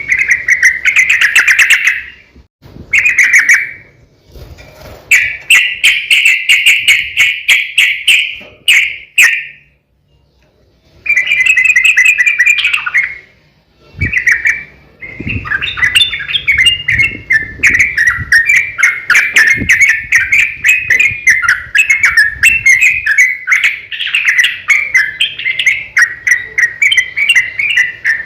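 Yellow-vented bulbul singing loud, rapid, bubbling chattering phrases, its long rolling 'ropel' song. It comes in bursts of a few seconds with short pauses, then runs almost without a break through the second half.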